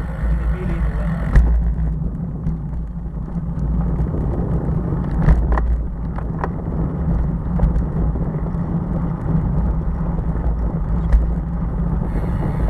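Steady low rumble of wind and road noise picked up while riding a bicycle, with a few sharp clicks or knocks.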